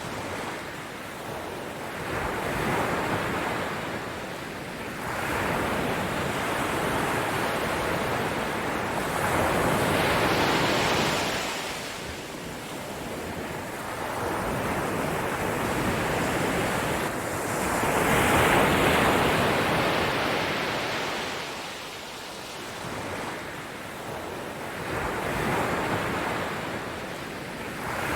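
Rushing noise that swells and fades in slow surges, every few seconds, with no tune or voice.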